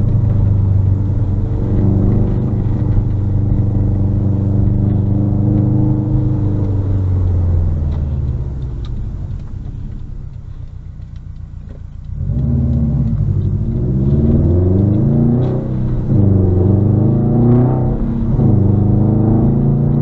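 Subaru WRX STI's turbocharged 2.5-litre flat-four running through a muffler-delete exhaust. It holds a steady pitch, eases off and goes quieter for a few seconds, then accelerates again, its revs climbing and dropping with each of several quick gear changes.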